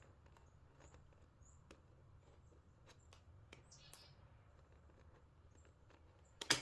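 Faint plastic clicks and scraping as a small battery compartment cover is worked loose, ending in a sharper click near the end.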